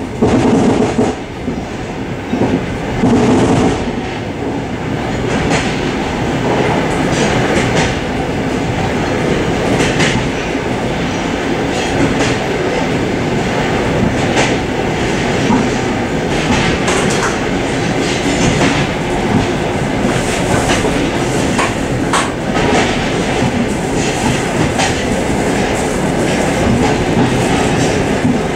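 Suburban passenger train running on the line, heard from inside the car's vestibule: a steady loud rumble of wheels on rail with scattered clicks and knocks from the rail joints. It grows louder over the first few seconds, then holds steady.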